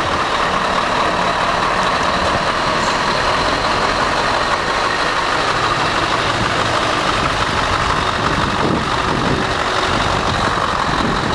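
Scania R500 truck's V8 diesel engine running steadily.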